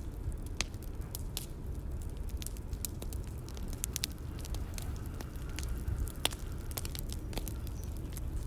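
Bonfire crackling: irregular sharp pops and snaps, several a second, over a low steady rumble of burning.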